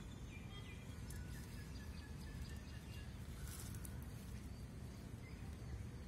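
Birds chirping in short, repeated high notes, mostly in the first half, over a steady low outdoor background noise. A brief rustle of leaves comes around the middle.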